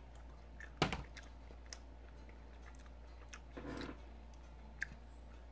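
Chewing and mouth sounds of someone eating a burger and fries, with a few sharp clicks, the loudest about a second in, over a low steady hum.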